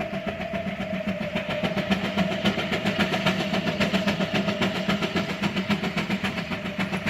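Antique tractor engine running with an even, rapid exhaust beat, growing louder over the first two seconds as it comes closer.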